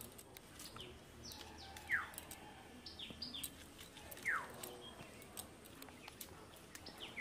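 A bird calling: a short, clear whistle that falls in pitch, repeated three times about two and a half seconds apart, with quicker high chirps in between. Faint scattered clicks lie underneath.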